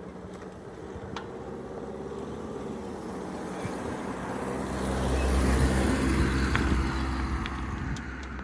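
A motor vehicle's engine and tyres approaching and passing close by, loudest a little past halfway and then fading.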